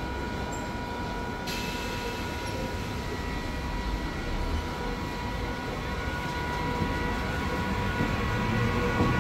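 A train running through a railway station, a steady rumble that grows louder toward the end as it comes closer, with a steady high whine over it.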